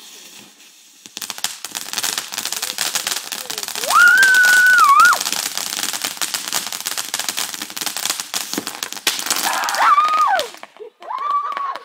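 Consumer firework going off in its second phase: a dense, rapid crackle of many small pops starts about a second in and cuts off suddenly near the end. Over it come loud high-pitched wails, the loudest at about four seconds, then shorter ones near ten and eleven seconds.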